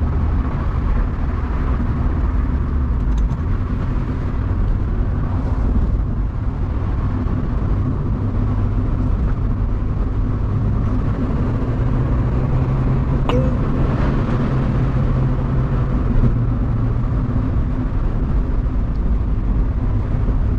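Mazda MX-5 NB four-cylinder engine and road noise at a steady cruise, held back behind slower traffic. The engine note rises slightly about twelve seconds in. A single click comes shortly after.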